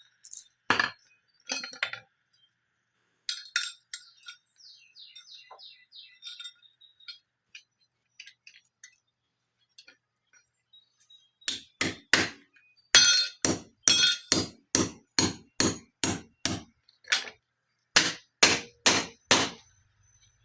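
Hand hammer striking a metal concrete anchor with a ringing, clinking sound: a few scattered blows, then a steady run of about two blows a second in the second half, driving the anchor into its hole in the concrete.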